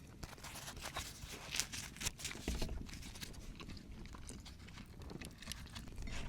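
Irregular crunching and clicking, several a second and loudest in the middle, over a low rumble.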